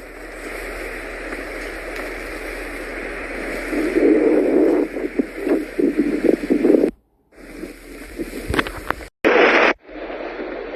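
Wind rushing and buffeting the microphone in a snowstorm, swelling in gusts, with abrupt cuts to silence about seven and nine seconds in.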